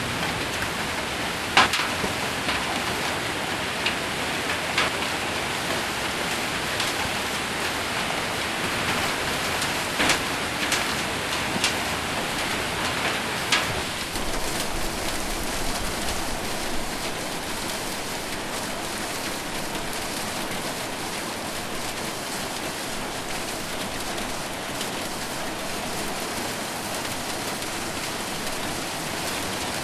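Heavy rain and hail drumming on a roof in a steady downpour. Sharp single hailstone strikes crack out a handful of times in the first half, then the rain settles to a slightly softer, even patter.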